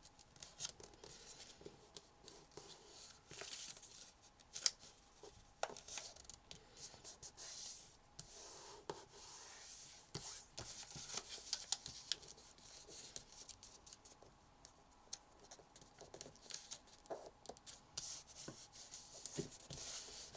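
A sheet of paper being handled and folded for origami: irregular crinkling and rustling with sharp little creases and taps as it is pressed flat.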